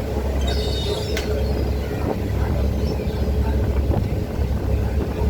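Boat engine running steadily under a heavy low rumble of wind buffeting the microphone, with a faint steady hum throughout.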